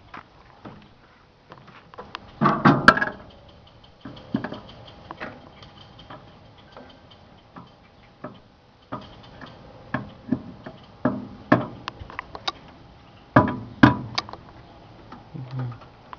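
Overheating microwave oven being run to destruction, crackling and ticking irregularly as it arcs and heats. Two louder bursts of crackling come about two and a half seconds in and again later.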